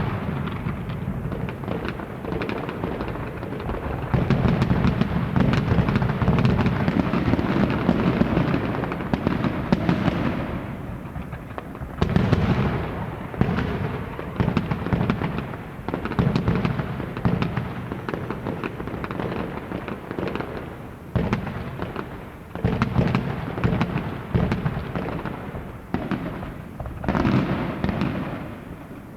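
A long run of rapid crackling bangs with heavier booming surges that swell and fade every few seconds, like firecrackers going off.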